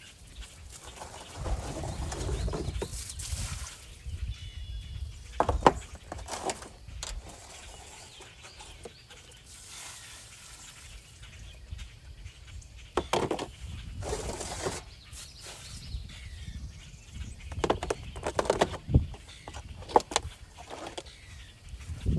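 Scattered knocks, clicks and rustling from pots and plants being handled, with a few faint bird chirps. The sharpest knocks come about five and a half seconds in and again near the end.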